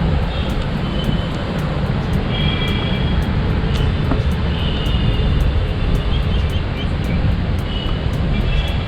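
Steady low outdoor rumble with no clear single source, the kind made by wind on the microphone or distant traffic. Faint short high tones sound a few times about two to five seconds in and again near the end.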